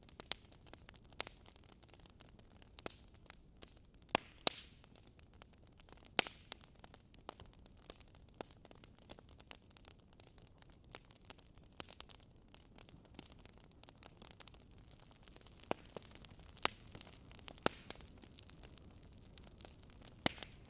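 Burning firewood crackling: irregular sharp pops and snaps, a few louder than the rest, over a soft steady hiss.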